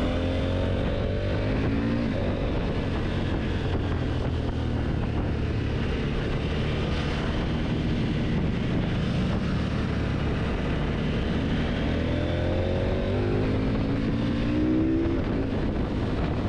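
Motorcycle engine running at speed with wind rushing past. The engine note rises as it accelerates at the very start and again a few seconds before the end.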